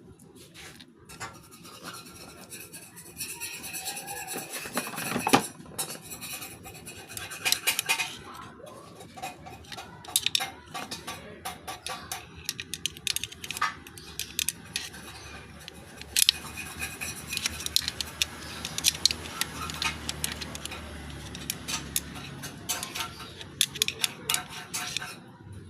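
Irregular metallic clinks, knocks and scrapes of metal parts being handled and worked by hand.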